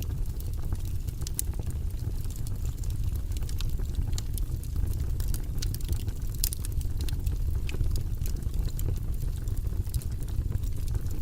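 Wood fire crackling in a fireplace, with a steady low rumble of flames under many small, irregular pops and snaps.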